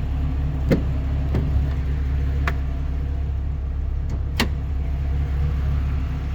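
The Ram SRT-10's 8.3-litre Viper V10 idling with a steady low hum, while a few sharp clicks and clunks sound as the hood is released and raised.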